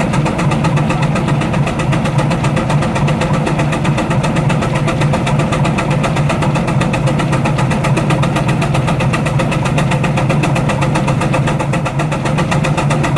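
Baker steam traction engine running under load on a prony brake, its exhaust chuffing in a rapid, even beat.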